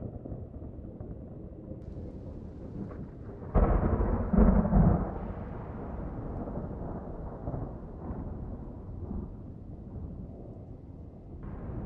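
Thunderstorm sound effect: a steady low rumble of distant thunder, broken about three and a half seconds in by a sudden loud thunderclap that rolls on for a second or two and fades back into the rumble.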